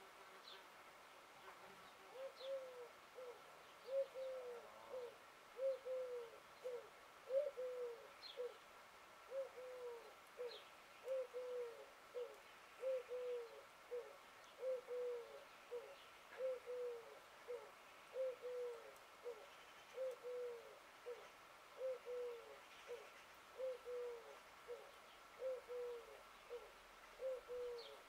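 A bird's low call repeated over and over: a longer note rising and falling, then a short one, about every second and a half to two seconds, starting about two seconds in. A faint steady high tone runs underneath.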